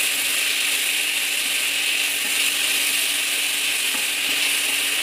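Chopped vegetables sizzling steadily as they fry in oil in a pan, with a few light scrapes of a wooden spatula stirring them.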